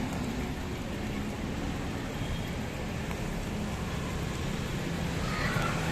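Steady street traffic noise: a low, continuous rumble of passing vehicle engines under a constant hiss.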